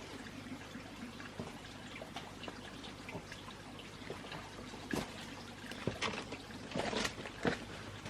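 Water trickling, with small ticks throughout and a few louder knocks in the last three seconds.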